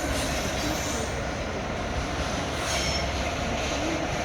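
A train running through the station with a steady rumble, its wheels squealing faintly on the rails about halfway through.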